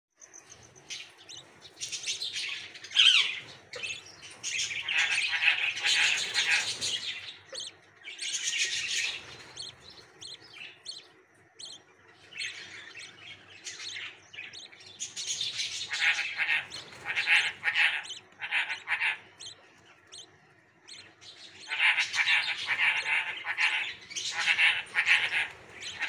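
Northern cardinal nestlings begging: rapid, high-pitched chirping in bouts of a few seconds, with short quieter gaps between, the calls of hungry chicks.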